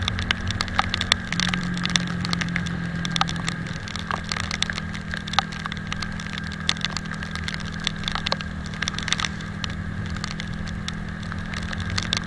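Italika 250Z motorcycle engine running steadily, its pitch shifting briefly about a second in, under a constant crackle of sharp clicks from raindrops striking close to the microphone.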